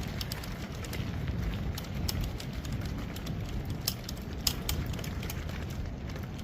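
Hurricane wind buffeting the microphone in a steady low rumble, with many scattered sharp crackling ticks over it.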